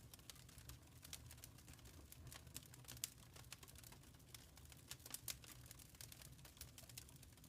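Wood fire crackling in a fireplace: many sharp, irregular pops and snaps over a faint low rumble.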